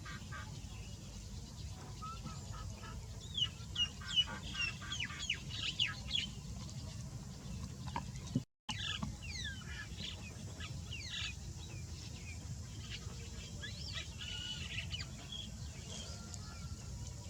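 Birds calling: many short, quick, falling chirps in a busy chorus over a low steady rumble, broken by a split-second gap of silence about eight and a half seconds in.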